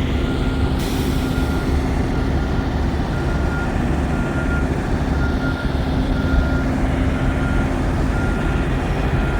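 Truck's steady low engine and road drone, with a faint high beep repeating about once a second.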